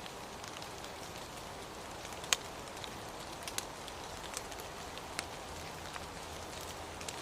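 Steady rain hiss with scattered sharp drops ticking on a surface, one louder drop a little over two seconds in.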